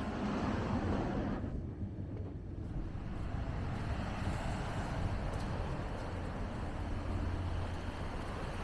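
Ocean waves breaking: a steady rushing wash of surf, with one wave surging in the first second or so and a broader, hissing wash building from about two and a half seconds in.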